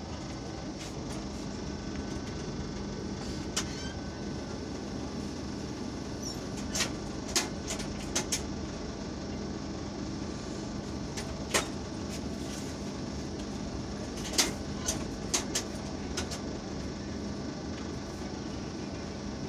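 Steady running rumble of a passenger train heard from inside the coach, with about ten sharp short clicks or snaps scattered through it, several in quick clusters.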